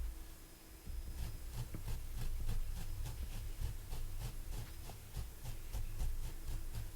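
Makeup being applied to a mannequin's face: a quick run of soft, even taps or strokes, about four a second, starting about a second in, over low handling rumble.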